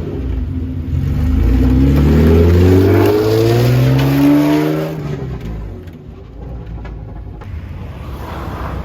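Modified car's engine and exhaust accelerating hard, its pitch climbing for about four seconds, then dropping away and fading as the car drives off.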